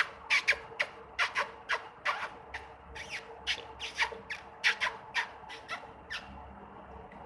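Pet parrot giving a rapid string of short, sharp squawks and chirps, irregular, about two or three a second.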